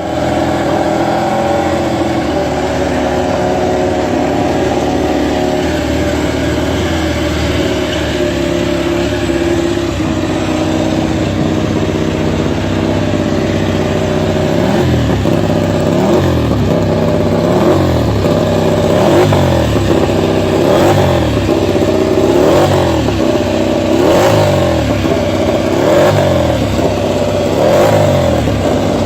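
Ducati Desmosedici MotoGP racing motorcycle's V4 engine running through its exhaust, held fairly steady at first. About halfway through it is revved up and down over and over, roughly once a second.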